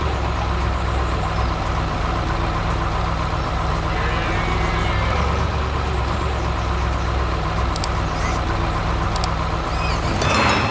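Heavy vehicle engine running steadily with a low rumble, with a brief rush of louder noise near the end before it cuts off.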